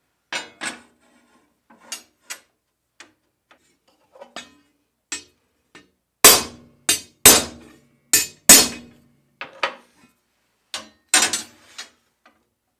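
Steel flat bar being struck with a hammer on a makeshift anvil: a string of uneven blows, each with a short metallic ring, light taps at first and heavier, louder blows from about six seconds in. The bar is being peened to spread it wider, because it was milled undersized for the slot.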